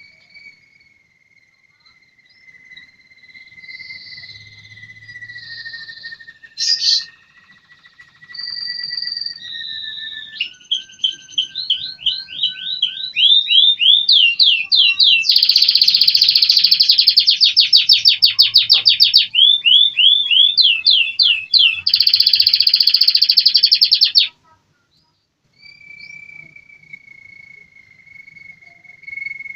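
American Singer canary singing: a thin, steady held note, then fast repeated sweeping notes that build into loud, rapid trills, which cut off suddenly.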